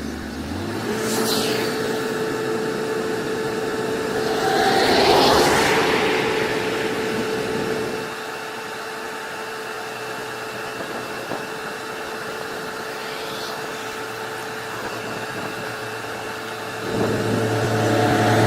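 Engines of heavy vehicles running steadily. The noise swells about five seconds in, drops after about eight seconds, and rises again near the end.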